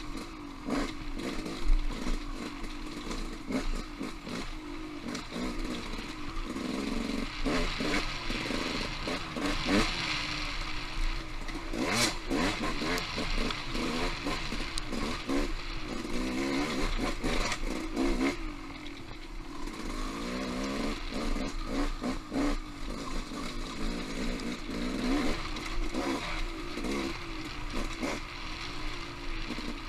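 Off-road motorcycle engine riding a rocky singletrack trail, the throttle rising and falling constantly, with clattering knocks from the bike over rough ground.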